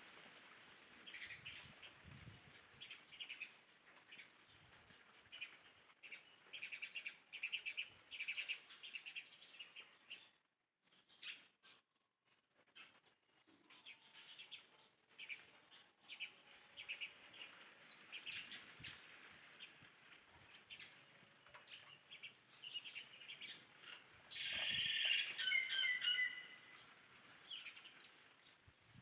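Many short, high chirping calls from small animals, with a louder run of pitched calls about 25 seconds in.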